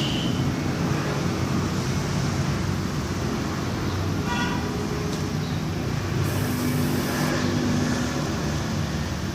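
Steady vehicle and road traffic noise, with a short horn toot about four seconds in.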